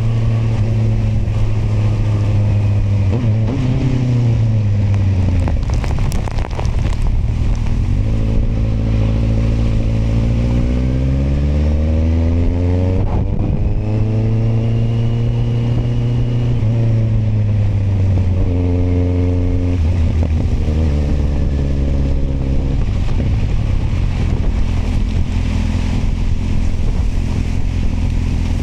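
Kawasaki motorcycle engine running on the road with a steady rush of wind and road noise. The revs drop about four seconds in, then climb in a long rise, hold, ease off again, and settle to steady cruising for the last several seconds.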